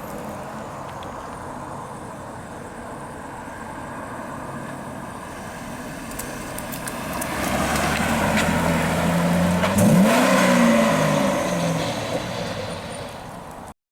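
2005 Chevrolet Corvette's 6.0-litre V8 running, growing louder about halfway through, with a quick rise in revs about ten seconds in, then fading near the end.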